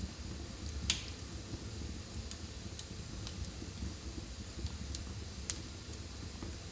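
Fire burning in a fireplace: a low steady rumble with a few scattered sharp crackles and pops, the loudest about a second in and another strong one later on.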